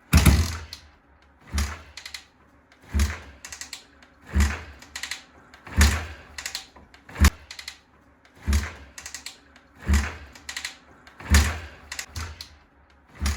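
Suzuki GS400 being kick-started over and over, a thump and a short clatter of clicks at each stroke, about one kick every one and a half seconds. The engine does not fire.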